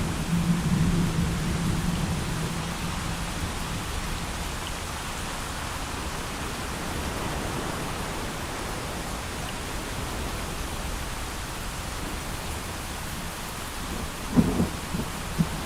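Thunderstorm: steady heavy rain, with a low rumble of thunder dying away over the first few seconds. A few short, sharp thunder cracks come near the end.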